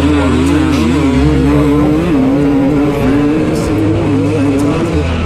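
Motocross bike engine running with the throttle constantly opening and closing, its pitch wavering up and down.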